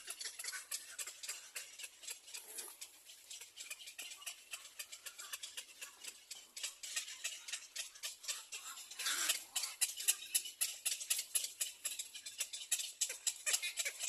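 Baby birds cheeping: a dense run of rapid, high short calls that grows louder about nine seconds in.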